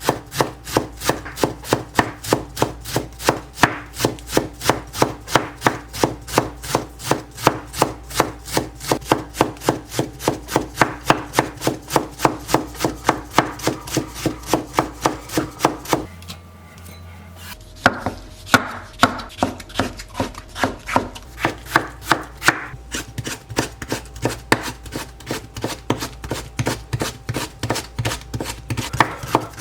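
Knife chopping food on a hinoki wood cutting board in quick, even strokes, about three to four a second, with a brief pause a little past the middle.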